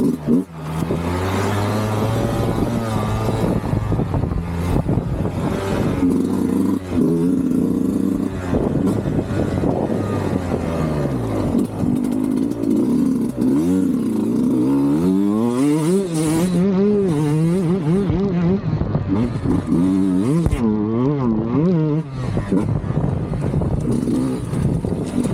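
Sherco 125 SE Factory two-stroke single-cylinder engine through a Fresco exhaust, revving up and falling back again and again. The pitch swings rise and fall in quick succession over the second half.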